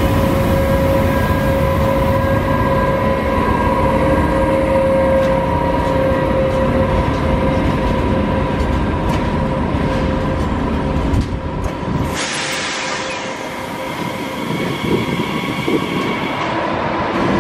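SNCF electric locomotive hauling passenger coaches past at low speed: a heavy wheel-and-rail rumble with a steady electric whine. About twelve seconds in the rumble drops away, and the lighter hiss of a more distant train coming in takes over.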